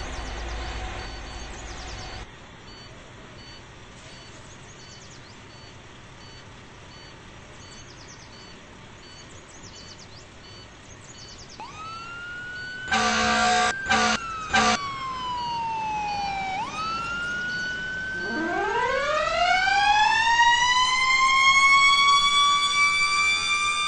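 Fire trucks responding: an electronic siren starts wailing up and down partway in, and an air horn blasts three times, one long and two short. Then a second siren winds up from a low pitch, rising steadily and getting louder near the end.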